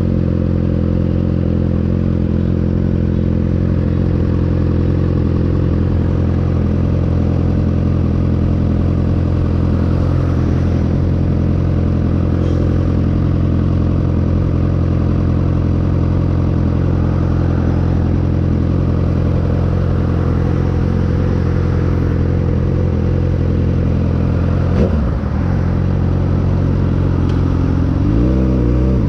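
A 2009 Suzuki GSX-R 600's inline-four engine running through an M4 aftermarket exhaust, holding steady revs. About 25 seconds in the pitch briefly dips and comes back, and near the end the revs start to climb.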